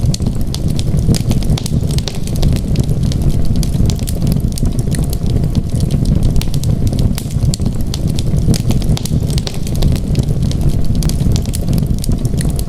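Wood fire crackling in a fireplace: many quick, sharp pops and snaps scattered irregularly over a steady deep rumble.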